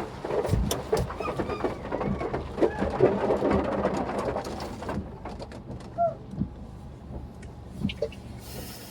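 A car's steady low hum under a dense patter of small clicks, likely rain on the car. The patter drops away about halfway through, and a few short whining calls from an animal follow.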